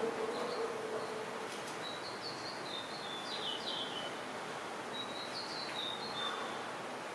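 Steady background hiss with a songbird calling in two short runs of high, stepping-down chirps, about two seconds in and again around five seconds.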